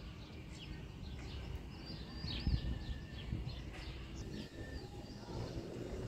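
Small birds chirping, many short rising and falling calls, over a low rumble.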